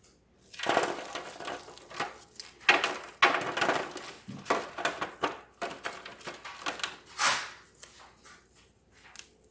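Chopped onion being tipped and spread by hand into a baking tin: a run of irregular crunching and rustling handling noises.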